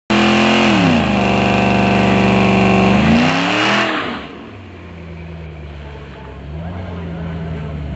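Muscle car engine held at high revs at the drag strip, loud and steady, then the revs swing up and drop back about four seconds in, settling to a much quieter low running note that picks up slightly near the end.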